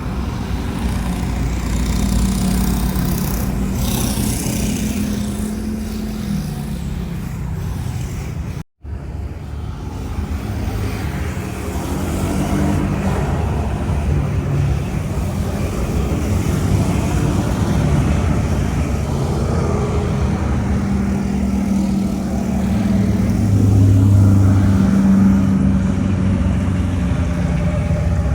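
Jet airliner engines running at takeoff power, a loud steady rumble with low droning tones. The sound cuts out abruptly for an instant about nine seconds in, then the engine noise resumes and swells near the end.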